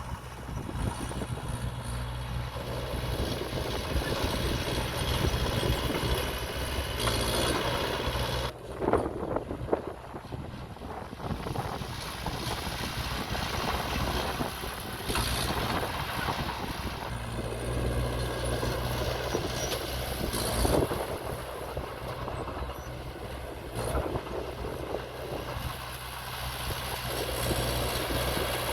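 Earthmoving machinery's diesel engine running with a steady low drone, with a cluster of clanks and knocks about nine seconds in and another sharp knock around twenty-one seconds in.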